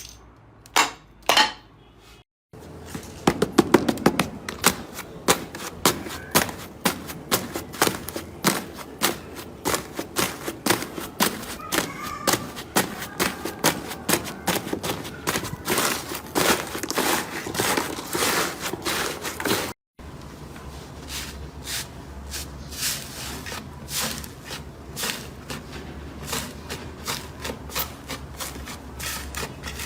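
Slime being squeezed and worked by hand, with many quick sharp pops and clicks from trapped air. The sound cuts off abruptly and resumes twice, about two seconds in and again about twenty seconds in.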